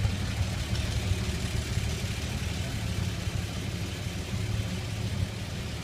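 1954 Chevy 3100's six-cylinder engine with an Offenhauser dual-carburetor intake manifold, running at a steady idle.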